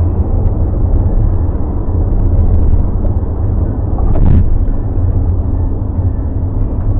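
Steady low road and engine rumble of a car being driven, heard from inside the cabin, with a brief louder swell about four seconds in.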